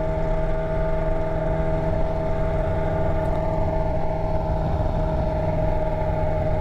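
Motorcycle engine running at a steady, unchanging pitch with its exhaust muffler missing, having fallen off the bike.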